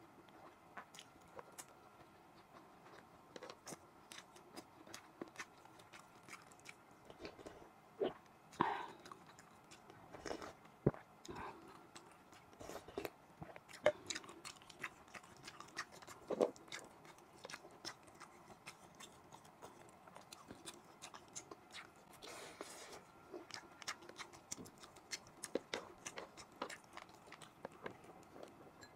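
Close-up mouth sounds of a person eating rice and beef bulalo by hand: quick, wet chewing smacks and clicks, louder and busier for several seconds around the middle.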